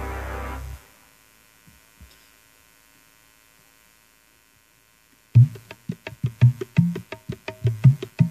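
Dangdut band music stops abruptly about a second in, then after a few quiet seconds a hand drum, the kendang typical of dangdut, starts a fast rhythm of sharp slaps and low pitched thuds.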